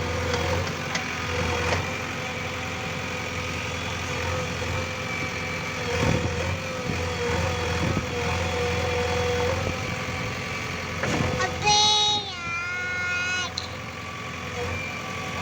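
Diesel engine of a JCB backhoe loader running steadily, with a few knocks. About twelve seconds in, a pitched sound with a slight waver lasts about a second and a half.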